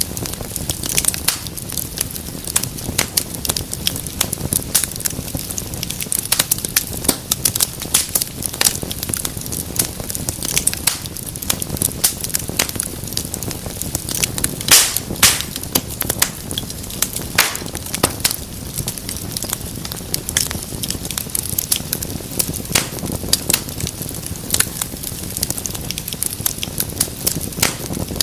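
Wood fire crackling steadily, with many sharp pops and snaps over a low rumble of flame; the loudest pop comes about halfway through.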